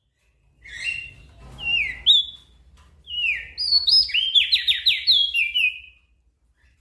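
Crested white-eye (opior jambul) singing: a phrase of clear whistled notes that slide down in pitch, breaking into a quick run of falling notes and stopping shortly before the end.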